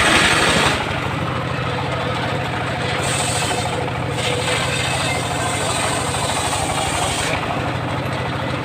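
Engine of a homemade circular sawmill running steadily at idle, with a brief louder, noisier burst right at the start.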